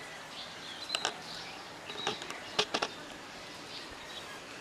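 Faint bird chirps over a steady outdoor background, with a few sharp clicks, most of them in a cluster about two and a half seconds in.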